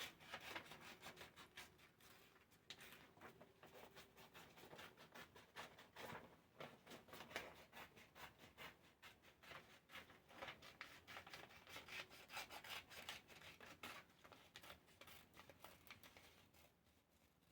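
Scissors cutting out a paper shape: a long run of faint snips with the paper rustling and sliding as it is turned.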